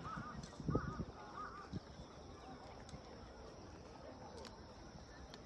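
Faint open-air ambience with a few quick bird chirps in the first second and a half, and a couple of low thumps of footsteps on a dirt path.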